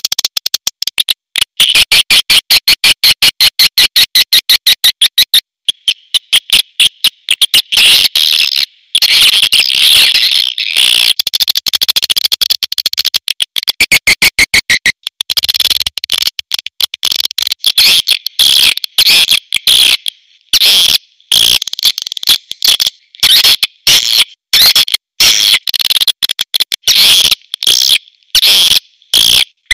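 Swiftlets calling: fast trains of high, dry chirps and clicks, several a second, broken by short pauses. It is a call track of the kind played to lure swiftlets into a nesting house.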